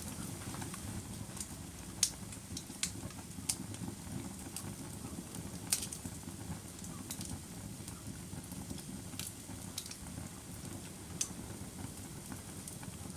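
Wood fire crackling: a steady low rumble of burning with irregular sharp pops and snaps, the loudest about two and six seconds in.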